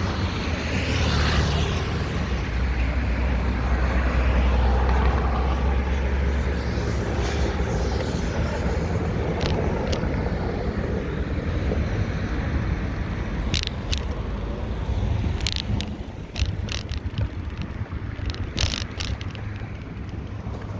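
Street traffic heard from a moving bicycle: a steady rumble of passing cars, louder in the first half as vehicles go by, with a run of short sharp ticks in the second half.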